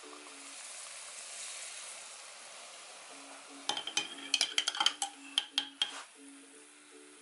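Batter balls frying in hot oil with a steady sizzle. About halfway through, a metal spoon clinks rapidly against a glass jar of water for about two seconds, a quick run of ringing taps as it is stirred.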